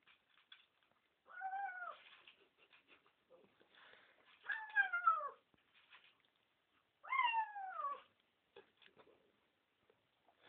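Domestic cat meowing three times, each meow about a second long and falling in pitch, with faint clicks between the calls.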